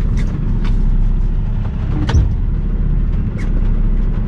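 Semi-truck diesel engine running with a steady low rumble, heard from the cab, with a few sharp clicks or taps over it.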